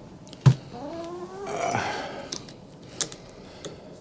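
A sharp knock, then a chicken's drawn-out call rising in pitch for about a second and a half, followed by a few light clicks of parts being handled.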